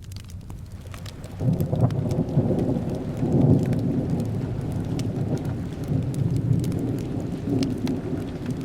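Thunder rumbles in suddenly about a second and a half in and rolls on, over steady rain. Sharp crackling pops from a wood fire are scattered throughout.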